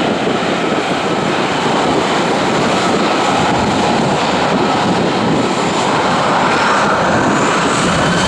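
Boeing 737-800's CFM56-7 turbofan engines, a loud, steady jet noise with a faint whine that rises slightly about six seconds in.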